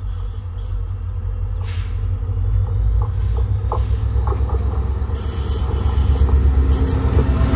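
Low rumble of an approaching train on Indian Railways track, growing steadily louder, with a few faint clicks and a rising hiss in the second half.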